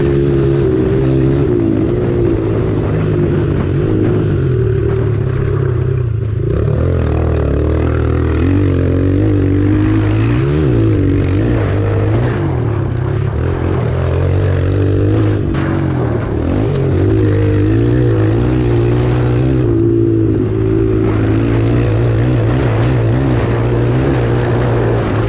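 Pit bike engines, a Kawasaki KLX140 among them, running hard during a race. The engine pitch rises and falls over and over as the riders open and close the throttle and shift gears.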